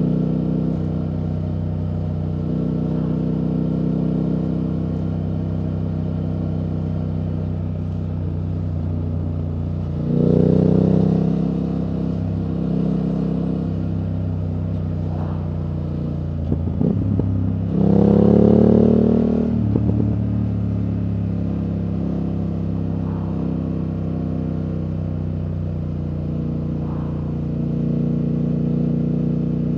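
2024 BMW F800GS parallel-twin engine running through an Akrapovič exhaust while riding at steady speed. It opens up twice, about ten and about eighteen seconds in, the note rising and falling back each time.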